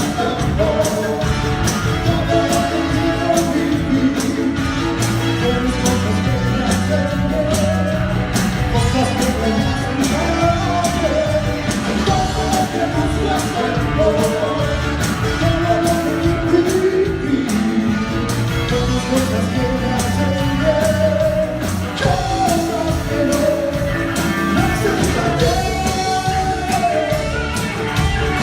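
Live cumbia band music: an instrumental passage with a lead melody over a steady beat.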